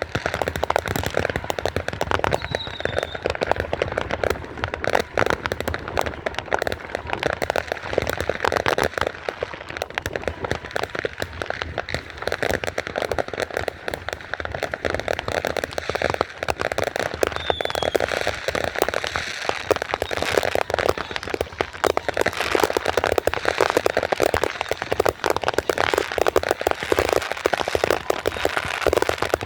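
Fireworks and firecrackers crackling continuously, countless small pops running together into a dense steady crackle. Two brief high whistles come through it, about three seconds in and again at about seventeen seconds.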